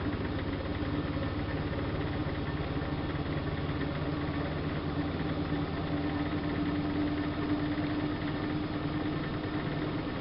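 Siemens Siwamat IQ washing machine running mid-cycle: a steady motor hum with a constant pitch over a noisy drone, unchanged throughout.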